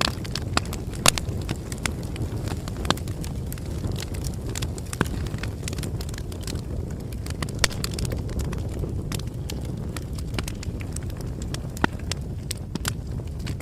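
Bonfire crackling: a steady low rumble of burning wood with frequent sharp pops and snaps, a few louder pops about a second in, near the middle and near the end.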